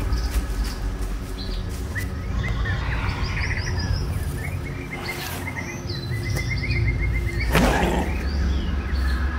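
Songbirds chirping and singing, with short repeated chirps and trills, over a steady low hum. About seven and a half seconds in, a short, loud, noisy burst sweeps down in pitch.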